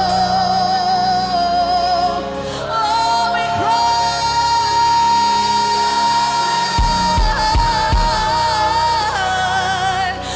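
Live gospel worship music: a singer holds long sustained notes with vibrato over sustained chords from the band. A few low drum thumps come in about seven seconds in.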